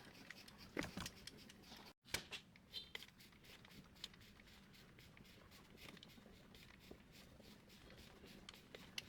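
Faint clicks and light rattles of plastic printer parts being handled during disassembly, with a few sharper ticks about one and two seconds in.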